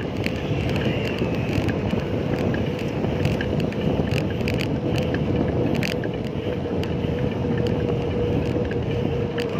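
Steady road and wind rumble from riding a bicycle, with a faint steady hum and scattered small clicks and rattles.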